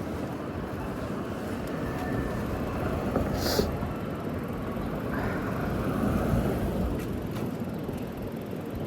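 City street traffic noise: a steady rumble of passing vehicles, with a short sharp hiss about three and a half seconds in.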